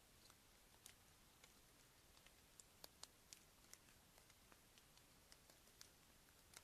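Near silence with faint, irregular ticks and clicks, a dozen or so scattered through it.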